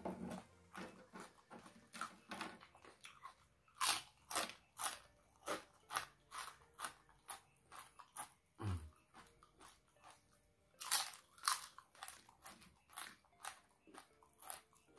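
Close-miked chewing: a person crunching a mouthful of raw red chilies, crisp bites about two a second, with louder crunches about four and eleven seconds in.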